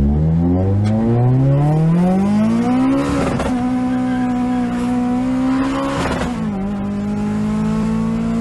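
Mitsubishi Colt's 4G93 MIVEC four-cylinder engine at full throttle, revs climbing for about three seconds and then holding high. Two short crackling breaks come about three and six seconds in, typical of flat shifting, where the gears are changed without lifting and the ignition is cut briefly.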